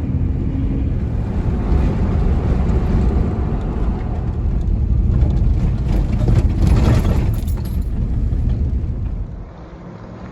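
Steady low rumbling noise that drops away about nine seconds in.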